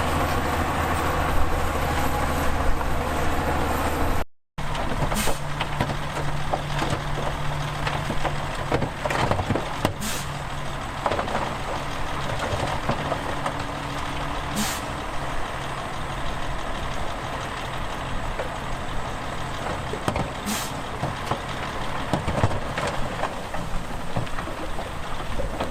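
Heavy diesel engines of earthmoving machinery, a bulldozer and dump trucks, running steadily, with a brief break in the sound about four seconds in. Four short sharp hisses cut through the engine noise.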